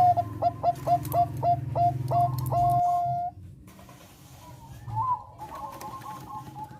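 Zebra dove (Thai 'perkutut bangkok' strain) singing: a quick run of about eight staccato cooing notes ending in one longer held note, then fainter cooing.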